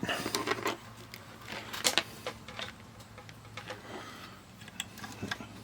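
Scattered small clicks and taps of multimeter test probes being handled and touched to a circuit board during a continuity check, with a sharper tap about two seconds in, over a low steady hum.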